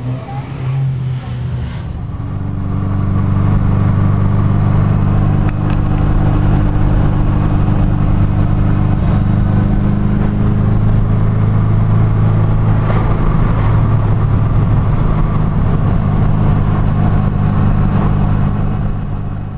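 Fiat X1/9's mid-mounted four-cylinder engine. Its note falls over the first two seconds, then it runs loud and steady, heard from inside the cabin.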